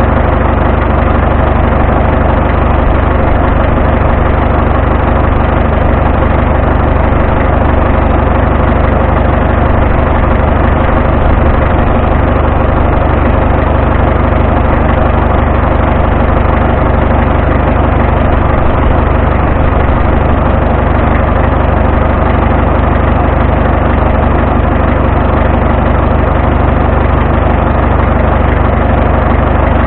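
Vintage farm tractor engine running steadily, a loud, even engine drone with no change in speed.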